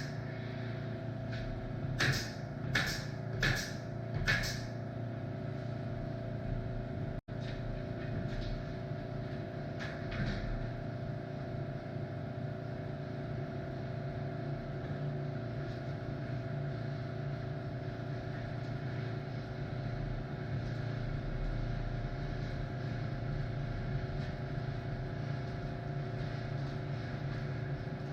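Steady mechanical hum, with four sharp knocks about two seconds in, roughly 0.7 s apart.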